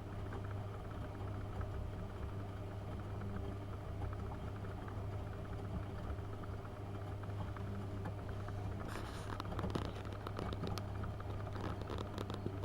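AEG Öko-Lavamat 72520 front-loading washing machine running a boil wash with prewash: a steady motor hum, with a louder swishing, crackling noise joining about nine seconds in.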